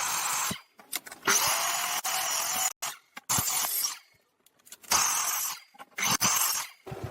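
Short, separate bursts of hissing woodworking noise from working wood, each stopping abruptly with brief silences in between.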